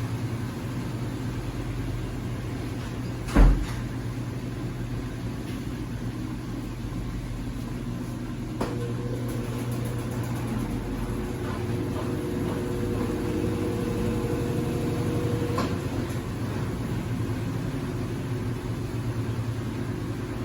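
Consul 8 kg (CWC08) washing machine running with a steady hum while washing a single-bed bedspread. One loud knock comes about three and a half seconds in, and a click near nine seconds starts a faint steady tone that stops with another click about seven seconds later.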